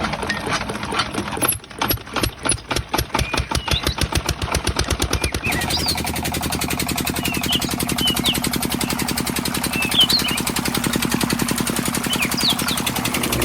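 Small engine of a miniature diesel water pump starting and chugging, its firing strokes irregular at first and then settling into a fast, steady run after about five seconds.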